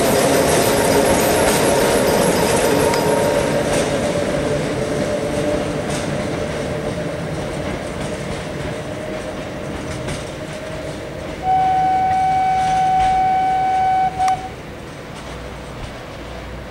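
Train Jaune electric railcar pulling away and receding, its running noise and a whine that sinks slightly in pitch fading steadily. About eleven seconds in a horn sounds one long steady blast of about three seconds, followed by a short toot.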